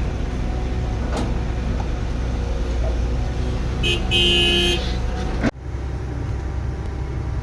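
Heavy machine engine running steadily, with one short horn toot about four seconds in. The sound drops abruptly at about five and a half seconds and the engine rumble carries on.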